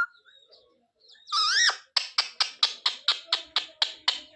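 Pet parrot calling: one wavering call about a second in, then a fast run of short, sharp repeated calls, about five a second.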